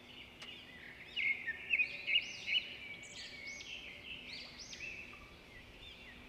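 Songbirds singing, a busy run of quick rising-and-falling notes that is loudest in the first half.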